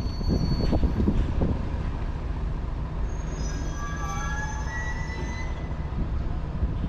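Scania BR111 bus's diesel engine running with a steady low rumble. About three seconds in, a high squeal of several tones rises over it for about two seconds, then fades.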